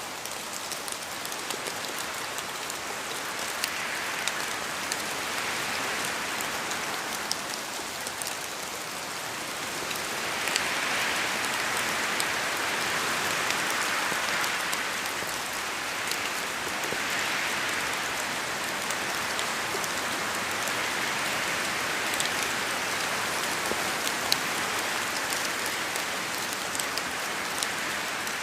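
Steady rain falling and pattering on a surface, with many small drop ticks; the downpour swells slightly and eases again.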